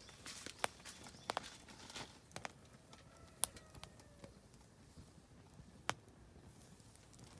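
Oak firewood burning in a fire pit, crackling with irregular sharp pops, the loudest about three and a half seconds in and near six seconds.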